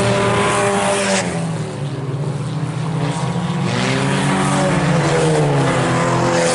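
Several IMCA Sport Compact race cars running hard, their four-cylinder engines overlapping, each rising and falling in pitch as the cars race through the turns.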